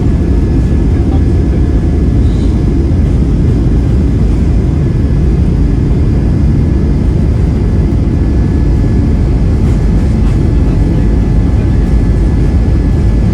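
Cabin noise of a Boeing 737-700 during take-off: its CFM56-7 turbofans at high thrust make a loud, steady, low rumble, with a faint steady whine above it.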